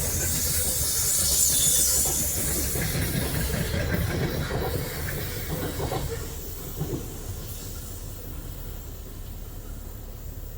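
A train rolling past on the rails, its wheels giving a high hiss over a low rumble, then fading away about halfway through as it moves off.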